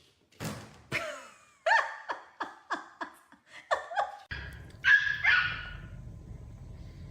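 Dog barking: a quick run of short barks, then two longer, louder barks about five seconds in.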